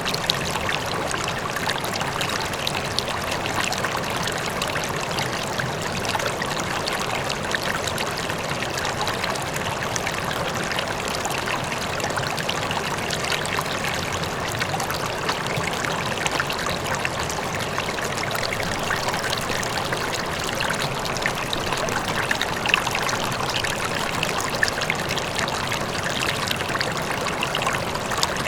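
River water flowing steadily, a continuous rush with small splashes and trickles throughout.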